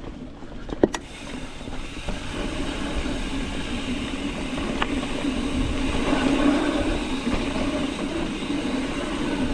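Mountain bike rolling fast down a dirt trail: a steady roar of tyres and rattling bike that grows louder as speed picks up, with a sharp knock about a second in.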